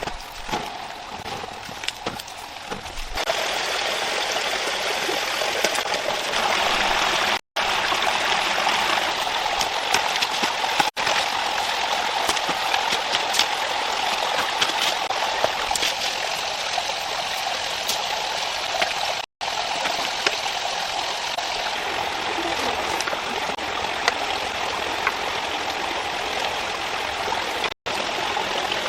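Steady rushing water, like a stream, that grows louder about three seconds in and breaks off for an instant three times.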